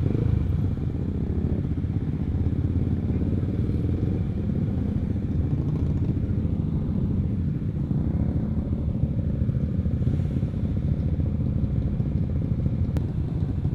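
Honda CBR150R's single-cylinder four-stroke engine with an aftermarket R9 exhaust idling steadily, a low, even rumble with no revving.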